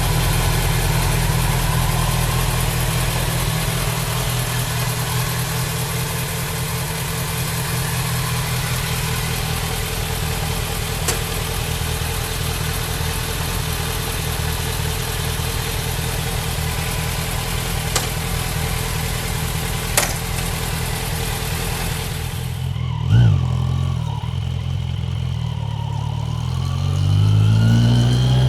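Kawasaki Z900's inline-four engine running on the move under a steady rushing noise. The rushing stops about three-quarters of the way through, a brief rev follows, and the revs climb near the end as the bike pulls away.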